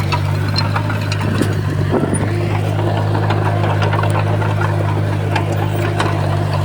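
Crawler bulldozer's diesel engine running steadily, with scattered short clicks and knocks throughout.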